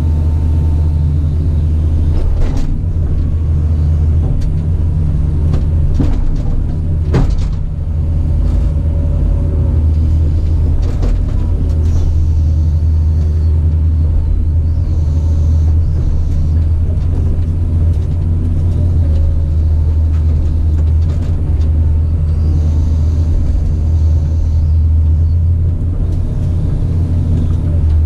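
Caterpillar 973C track loader's diesel engine running steadily with a deep rumble, with a few sharp clanks, the clearest about two and a half and seven seconds in.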